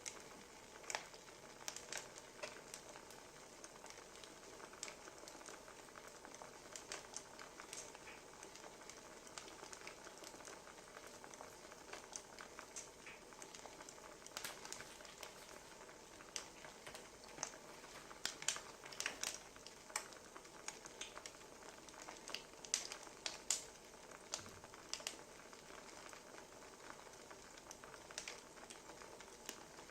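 Wood fire crackling: irregular snaps and pops over a soft steady hiss, the pops coming thicker and sharper past the middle.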